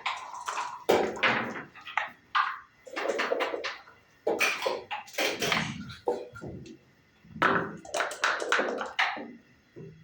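Backgammon play: dice and checkers tapping and clacking on the board in a quick, irregular string of knocks.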